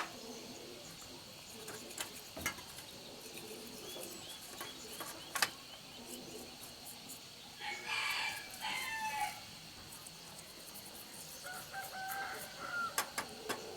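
A rooster crowing once, about eight seconds in, with a shorter, fainter call a few seconds later, among scattered sharp clicks and taps.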